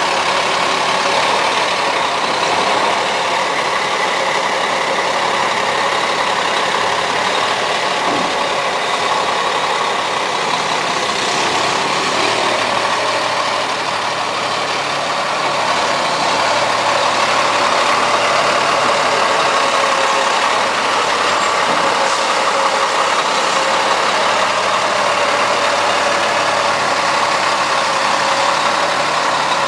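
Truck engine running steadily, an even drone that holds without revving.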